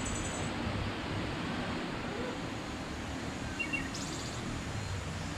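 Outdoor ambience: steady low background noise with a few brief, high bird chirps near the start and again about four seconds in.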